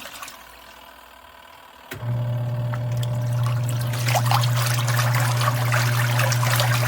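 A twin tub washing machine's motor is running with water swishing and trickling in the tub. It is paused at first, then clicks on about two seconds in and runs with a steady low hum, the stop-and-start typical of the wash cycle's alternating agitation.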